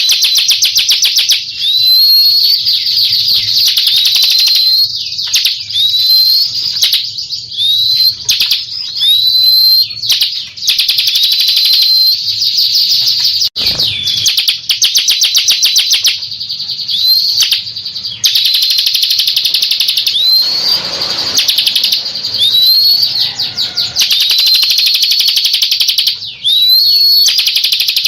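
Bar-winged prinia (ciblek, Prinia familiaris) singing: fast, buzzy trills of rapid repeated notes, broken about once a second by short rising whistled notes.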